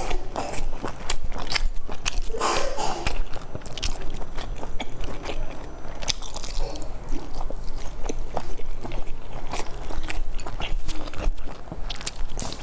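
Close-miked chewing and biting of soft steamed dumplings: wet mouth sounds with many small clicks throughout.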